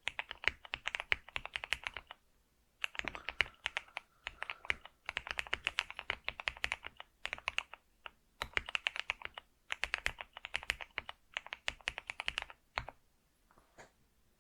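Computer keyboard being typed on in quick bursts of key clicks separated by short pauses; the typing stops near the end, leaving a few scattered faint clicks.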